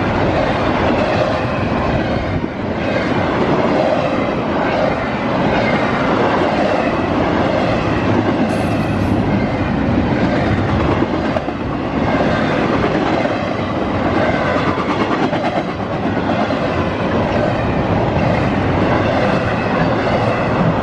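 CSX intermodal freight train passing close at speed: a loud, steady rumble and rattle of cars and wheels on the track, dipping briefly now and then.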